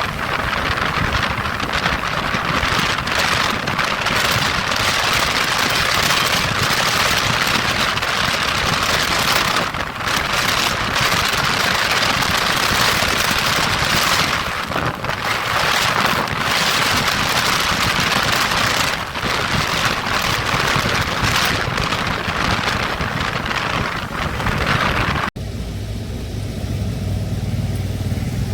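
Wind rushing over the microphone on a moving Royal Enfield motorcycle, with road and engine noise beneath. About 25 seconds in it cuts abruptly to a much quieter, steady low hum.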